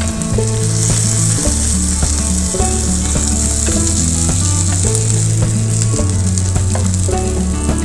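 Beef burger patties frying in oil in a grill pan, a steady sizzle, with a few light knocks as a metal potato masher presses them flat. Low background music plays underneath.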